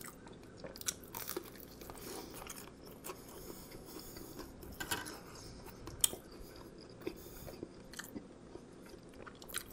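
Close-up chewing of a grilled cheese sandwich on toasted sourdough. It is a steady wet mouth sound with scattered sharp crunches from the crust, a loud one about six seconds in.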